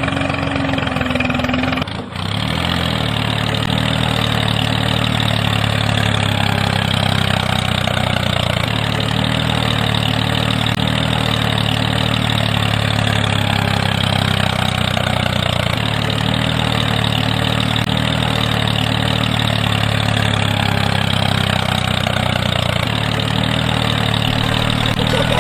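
A small motor running steadily with a constant hum, after a brief break about two seconds in.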